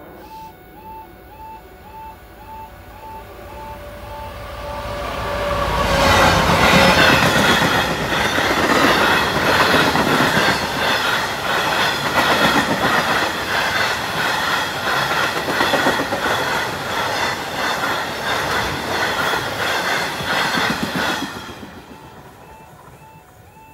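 A level crossing's warbling warning alarm sounds as a DB Cargo Class 66 diesel freight locomotive approaches, then the locomotive and its covered steel-coil wagons run loudly past for about fifteen seconds, the wheels clattering over the rail joints in a steady rhythm. The train noise drops away near the end.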